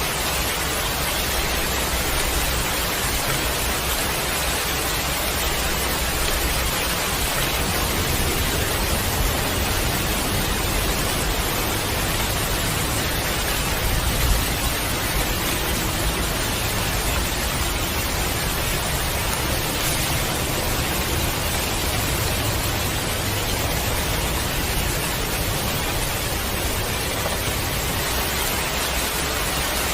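Heavy rain falling steadily, a dense even hiss with a low rumble underneath that swells and fades.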